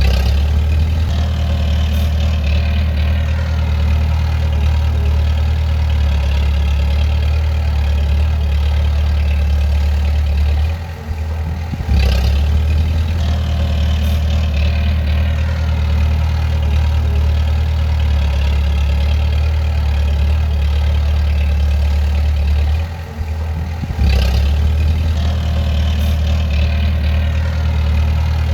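Bulldozer's heavy diesel engine running steadily under load, easing off briefly twice, about 11 and 23 seconds in, then picking straight back up. A few sharp clanks sound over it.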